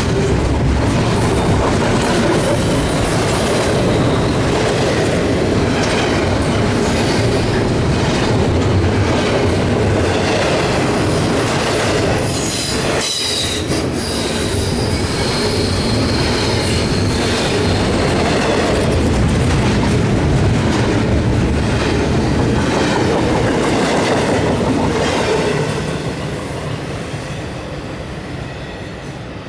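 Freight cars of a heavy CSX train rolling past, wheels clicking over rail joints, with a faint high wheel squeal about halfway through. The sound fades over the last few seconds as the train moves off.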